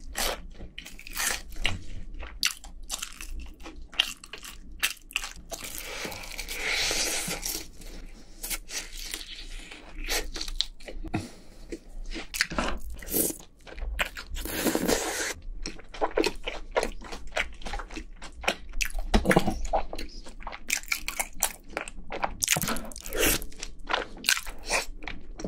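Eating crispy fried chicken: many irregular sharp crunches as the coating is bitten and chewed, with softer wet chewing in between.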